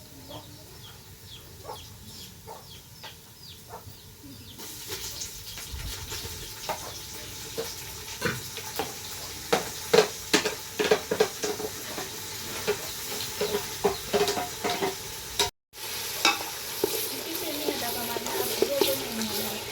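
Food sizzling and frying in a pan while a utensil stirs it, scraping with frequent sharp knocks against the pan. The sizzle comes in about four seconds in, after a few seconds of soft repeated clucking from chickens.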